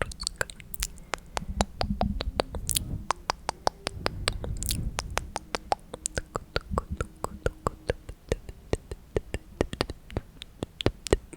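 Close-miked ASMR mouth sounds: rapid tongue clicks ('tk tk') at several a second, with a duller low rumble from about two to five seconds in.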